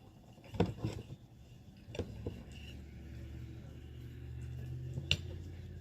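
Eating sounds from a baked potato being eaten: a few sharp mouth and utensil clicks, over a steady low rumble that swells in about two seconds in.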